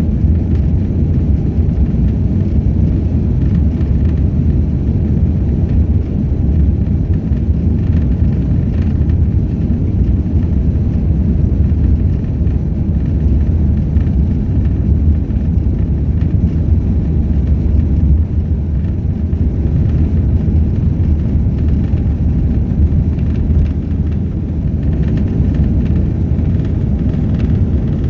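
Steady loud rumble of a jet airliner's engines and airframe heard from inside the passenger cabin during takeoff.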